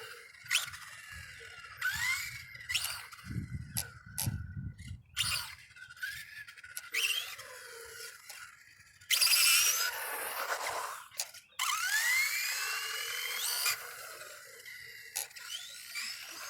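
Electric motor and gear drive of a Tamiya 4WD radio-controlled rally car whining in short bursts, the pitch rising as it speeds up, with scattered sharp knocks in between.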